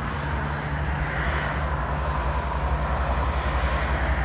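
Diesel truck engine idling: a steady low rumble with a fast, even throb, over a broad hiss.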